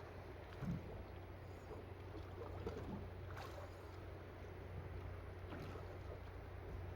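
Fishing boat on the water: a steady low hum under a noisy hiss, with a few faint soft knocks.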